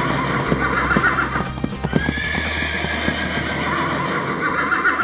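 A horse whinnying with hooves clip-clopping. The whinny comes twice, the second starting about two seconds in, each ending in a quavering trill.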